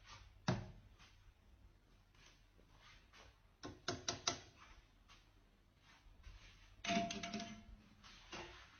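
A few soft knocks and taps in a small room: one about half a second in, a quick cluster of three or four near the middle, and a longer group near the end.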